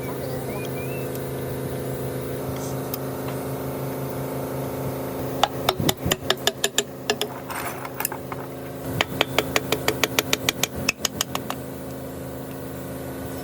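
A machine running with a steady hum, joined twice by a quick run of sharp, hard strikes, about six a second: once about five seconds in, and again near nine seconds, lasting a couple of seconds each time.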